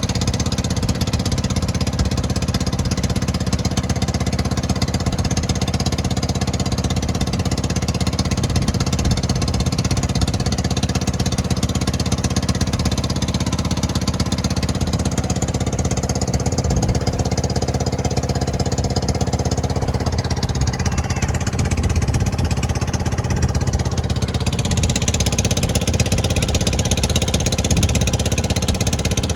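An engine running steadily with a fast, even pounding beat.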